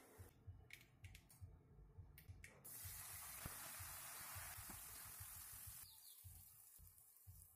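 Ground coconut paste sizzling as it hits hot oil in an aluminium kadai: a steady frying hiss that starts about a third of the way in and stops suddenly near the end. A few light clicks come before it.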